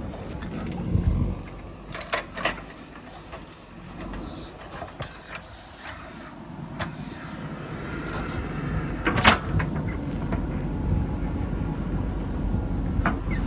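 Diesel engine of a JCB 3DX backhoe loader running steadily, with several sharp metallic clanks from the working machine, the loudest about nine seconds in.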